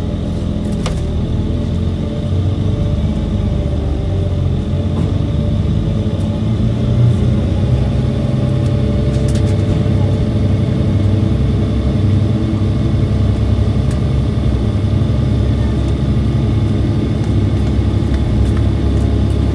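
Diesel engine of a KiHa 283 series diesel multiple unit running under power, its low drone rising slightly in pitch and level over the first several seconds as the train gathers speed.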